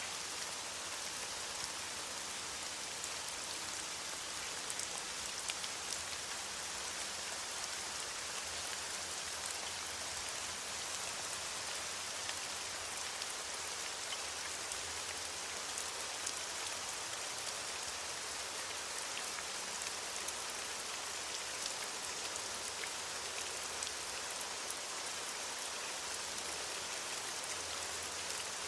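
Steady rain falling on leaves: an even hiss dotted with many small drop ticks.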